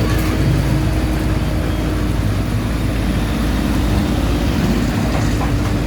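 Diesel engine of a JCB backhoe loader running steadily, a continuous low rumble with a steady hum and no change in pitch.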